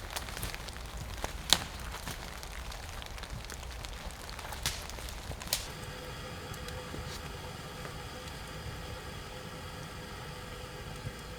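Wood fire crackling, with a few sharp pops in the first half. About halfway through it gives way to a steady low hum with a faint held tone.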